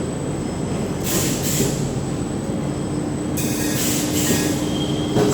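Filter-cage bottom-cap welding machine running: steady mechanical clatter with bursts of hissing about a second in and again from about three and a half seconds on, and a steady hum that sets in around the middle.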